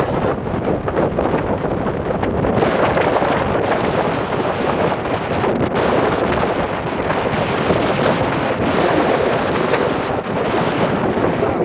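Strong wind buffeting the microphone in a steady gale of about 35 mph gusting to 45, a loud continuous rush that grows brighter and hissier about two and a half seconds in.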